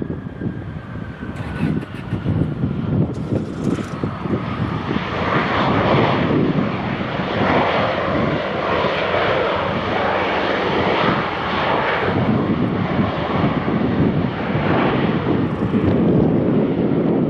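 Jet airliner's engines, with a high whine falling in pitch over the first few seconds, then a loud, steady jet roar building in from about five seconds in as the aircraft passes.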